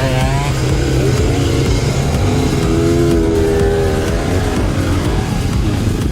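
Dirt bike engine running on a trail ride, its revs rising and falling as the rider works the throttle.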